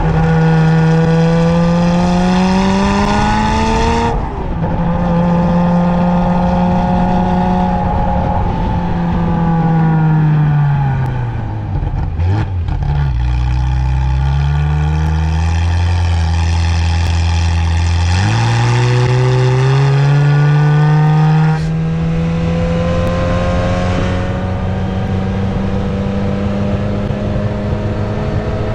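Ferrari F355 F1's 3.5-litre V8 under way, its pitch climbing as it accelerates and dropping abruptly at gear changes. About a third of the way in, the engine falls to a low pitch as the car slows, then climbs again in steps and keeps pulling through the gears.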